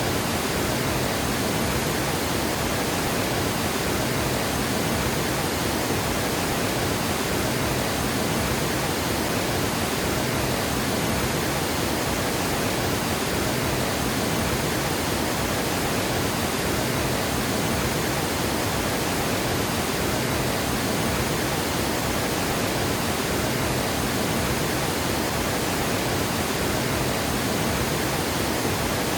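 Water pouring over a dam spillway: a steady, even rush of falling water.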